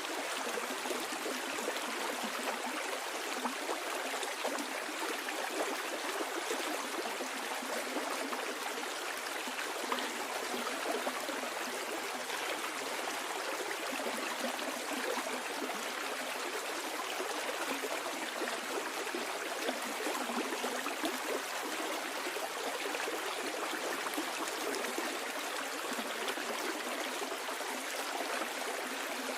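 Stream water flowing downstream, a steady rushing and burbling with small splashes and no pauses.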